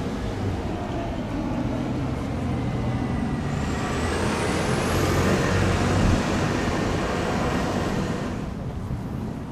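Van Hool Exqui.City articulated bus running with a steady low hum. About three and a half seconds in, a loud hiss builds up over it with a thin rising whine, then dies away near the end.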